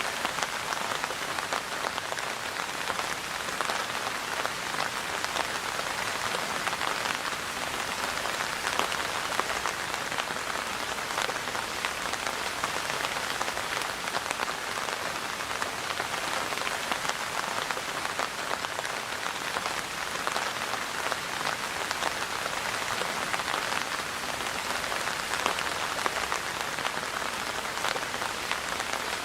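Steady rain falling, a dense even patter of drops striking a surface.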